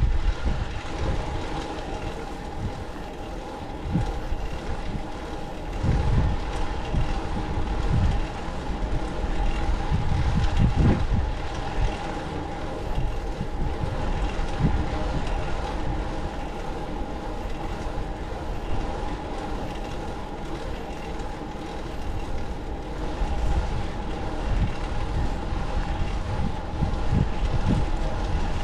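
Wind buffeting the microphone while riding a fixed-gear bike, over a steady whirring hum from the drivetrain and tyres rolling at an even speed.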